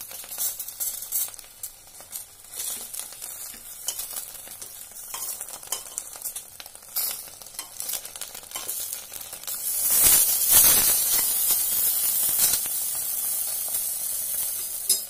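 Banana-leaf fish parcels sizzling in mustard oil in a pressure cooker, with a metal spatula scraping and clicking as it turns them over. About ten seconds in, the sizzling grows much louder and stays up.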